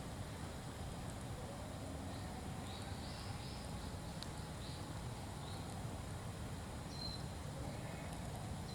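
Birds chirping faintly in short calls over a steady low outdoor rumble, with an occasional sharp click.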